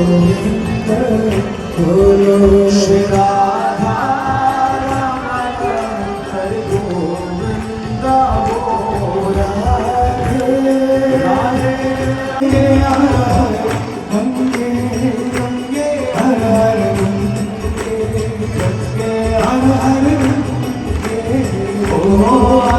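Devotional Hindu bhajan: a voice singing long, drawn-out notes over steady rhythmic hand percussion.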